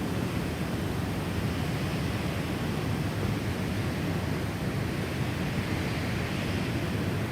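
Steady gusty wind of a snowstorm, a dense rushing noise, swelling a little about two-thirds of the way through.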